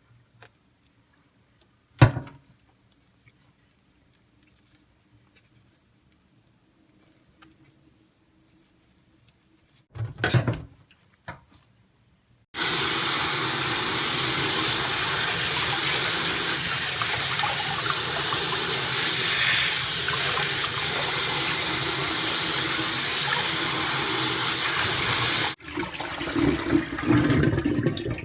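A water tap running hard into a sink, a steady rush for about thirteen seconds that stops abruptly when shut off, followed by a few seconds of water splashing. Earlier there is a single sharp knock and, later, a brief clatter.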